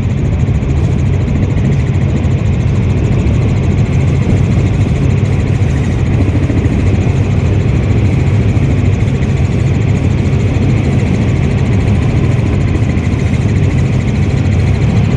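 Loud, steady drone of a helicopter's engine and rotor, heard from inside the cabin.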